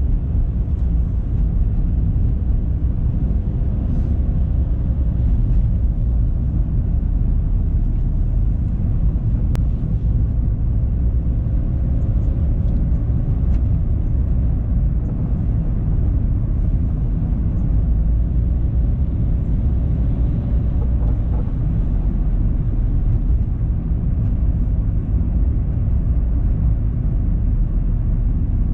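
A car driving at a steady pace: low, even road and engine rumble, with a faint tone that slowly rises in pitch through the middle.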